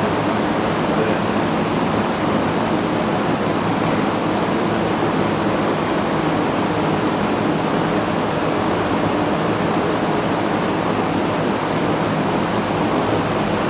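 Steady, unbroken rushing noise at an even level, with no distinct knocks or tones.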